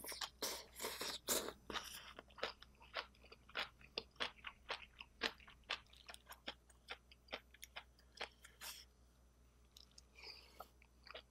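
Close-up mouth sounds of eating spicy steamed seafood and bean sprouts: wet chewing and many short, sharp crunchy bites. They are loudest and thickest in the first two seconds, thin out after that, and stop about nine seconds in.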